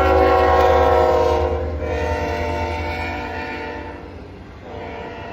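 Norfolk Southern freight locomotive's air horn blowing a long chord-like blast that drops slightly in pitch about two seconds in as the train passes, then fades. A quieter second blast starts near the end, over the steady low rumble of the passing diesel train.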